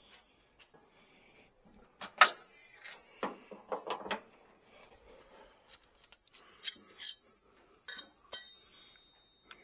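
Metal tools or parts being handled: a sharp knock about two seconds in, a short clatter, then a few bright ringing metallic clinks in the second half.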